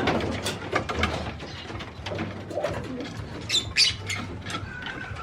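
Domestic pigeons cooing in a loft, a low hum that comes and goes about once a second, with scattered clicks and rustles and a few high chirps near the middle.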